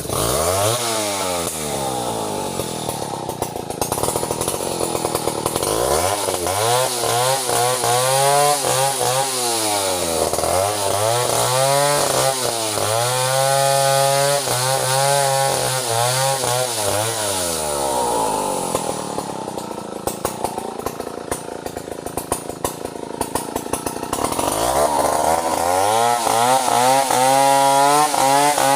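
Chainsaw cutting into bintangor wood during tree felling. The engine is revved up to a steady high speed, then eased back several times. It drops lower for several seconds past the middle and climbs back to full speed near the end.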